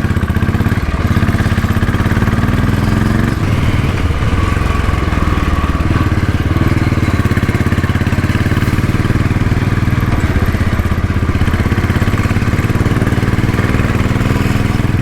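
Royal Enfield Bullet's single-cylinder engine running steadily, a loud, even beat of firing pulses.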